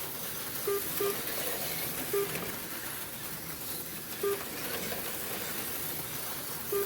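HO-scale slot cars running on the track, a steady hissing buzz of small electric motors and pickups on the rails. Five short beeps sound at uneven intervals over it.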